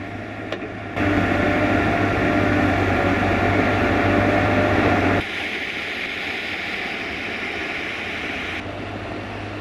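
Steady mechanical-sounding noise with a low hum. It changes abruptly about a second in, growing louder, and again about five seconds in, growing softer.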